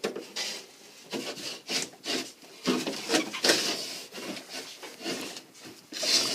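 Drywall being cut open: uneven rasping, scraping strokes, about two or three a second.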